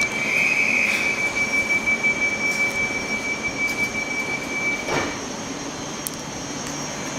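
Class 387 electric multiple unit running along the platform, its wheels giving a steady, high-pitched squeal that stops about five seconds in, over the rumble of the train.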